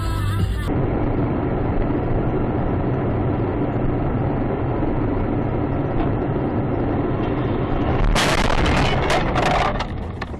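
Dashcam audio of a car driving, with steady muffled engine and road noise. About eight seconds in, a sudden loud crash lasts about a second and a half and is followed by a few sharp knocks: a collision.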